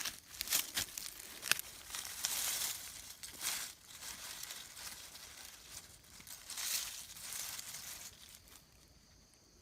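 Dry leaf litter crackling and rustling as it is brushed aside and crushed by hand, in irregular crunches and swishes with a few sharp snaps, dying down near the end.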